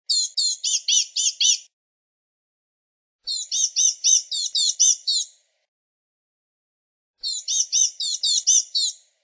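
Blue-gray gnatcatcher calling in three runs of rapid, high notes, about five notes a second, with short pauses between the runs.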